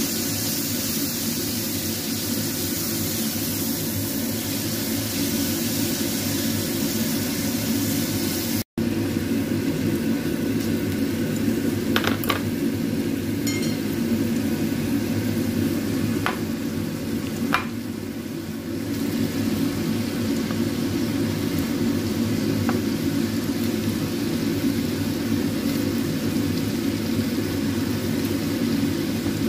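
Shrimp frying in hot oil in a nonstick wok, sizzling steadily while being stirred, with a few sharp clicks in the middle stretch.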